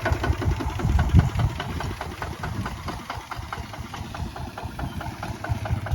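Kubota ZT155 single-cylinder diesel engine running with a steady, even knocking beat, loudest about a second in and a little quieter from about two seconds on.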